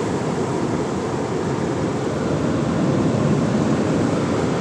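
Drying stage of a soft-touch tunnel car wash heard from inside the car: a steady rushing noise from the drying equipment, swelling a little about three seconds in.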